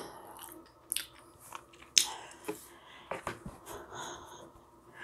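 Close-up mouth sounds: soft chewing and small lip smacks and clicks, with a sharp breath about two seconds in.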